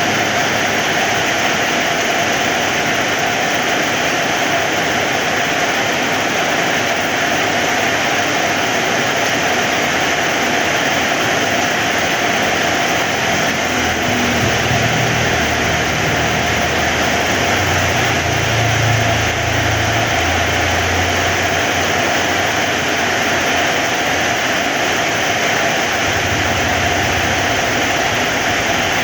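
Heavy rain falling steadily as a dense, even hiss, with a low rumble coming and going from about halfway through.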